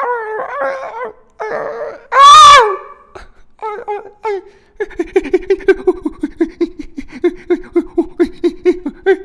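A person's voice making mouth-made sound effects: wavering wailing cries, a very loud high shriek about two seconds in, then a rapid stuttering vocal pulse of about five beats a second for the last four seconds.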